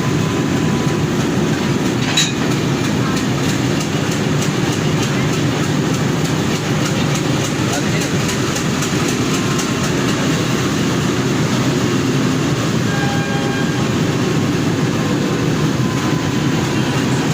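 Class M4 diesel locomotive running, a steady loud engine rumble, with a single sharp clank about two seconds in.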